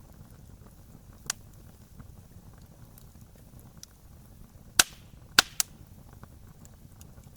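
Wood campfire crackling over a low steady rumble of flames. It gives a sharp pop just over a second in, then three loud pops in quick succession about five seconds in.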